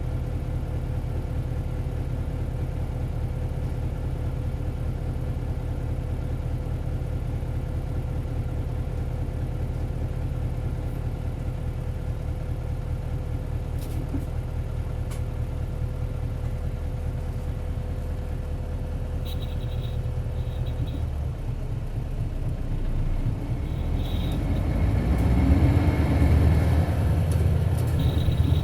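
Isuzu Cubic bus's 8PE1-S V8 diesel engine idling steadily, heard from inside the cabin. Near the end the engine note changes and grows louder as the bus pulls away and accelerates. Short high beeps come a few times toward the end.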